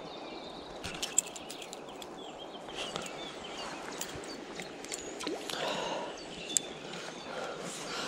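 Birds chirping and calling over a steady outdoor hiss, with a few sharp small clicks from fishing tackle being handled about a second in.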